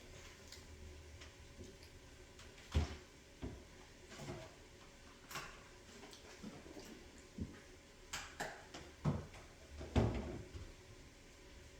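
Scattered light knocks and clicks, about eight over ten seconds, the loudest near the end: household items being set down and handled, like a door, cupboard or dishes.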